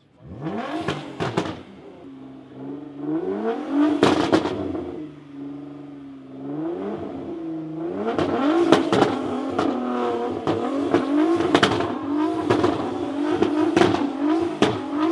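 Car engine being revved: it rises and falls, idles briefly, then from about eight seconds is blipped in quick repeated revs, roughly one a second, with sharp cracks mixed in.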